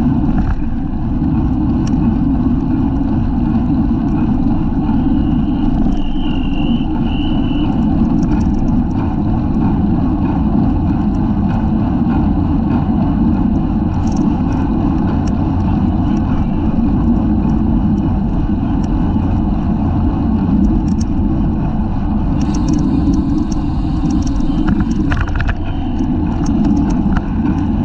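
Steady wind buffeting and road rumble on the microphone of a camera mounted on a racing bicycle moving at race speed, with a few faint ticks.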